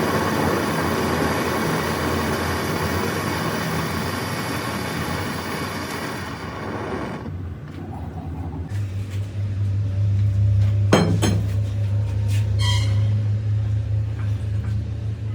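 A loud machine runs with a noisy whine for about seven seconds and then stops. A steady low engine hum follows, with a few metallic clinks.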